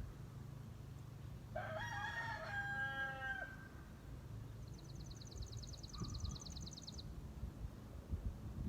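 A rooster crows once, for about two seconds: the call rises, holds, then drops at the end. A small songbird follows with a fast, high trill of about ten notes a second, lasting a little over two seconds.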